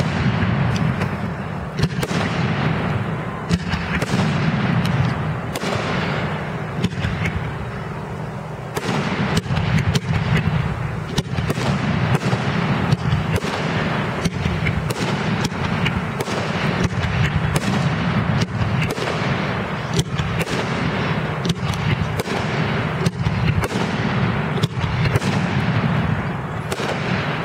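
Fireworks display: a dense, continuous barrage of shell bursts, with sharp bangs coming several times a second over a steady rumble of booms.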